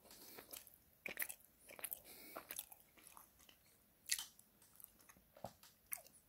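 Faint close-up chewing of a mouthful of salted caramel and chocolate tart, with irregular small wet clicks and mouth sounds.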